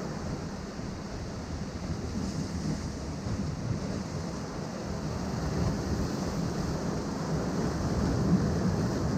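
Ocean surf washing in among shoreline rocks: a steady rush that swells a little louder in the second half.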